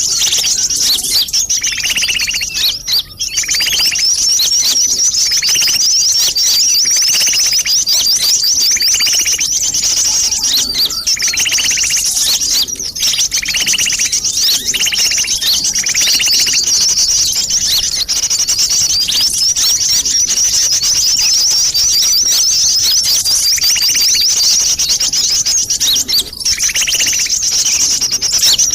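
Sunbirds calling in a busy bird-lure recording: a dense, continuous twitter of rapid high chirps, with shorter, lower notes repeating about every second or two.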